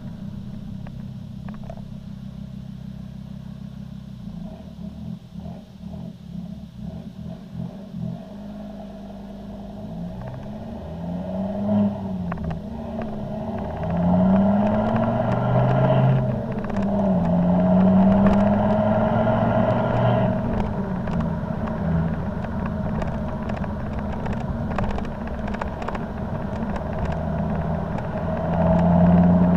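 Volvo C30 D5's five-cylinder turbodiesel running through a Powerflow cat-back exhaust with the diesel particulate filter deleted. It idles at first, then is revved several times with the pitch rising and falling, settles back, and rises again near the end.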